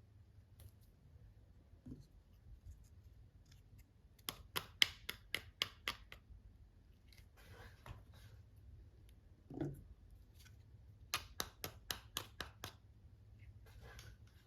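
Scissors snipping in two quick runs of about eight sharp snips each, with a soft thump between them.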